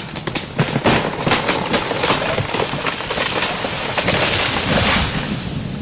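Storm sound effect: steady rain with a long crackling thunderclap that swells and then eases near the end.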